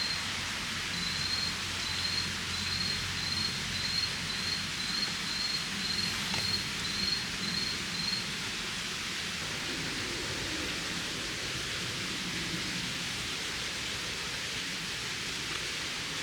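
Steady outdoor hiss, like rain or running water. Over it a short, high chirp repeats about twice a second and stops about halfway through.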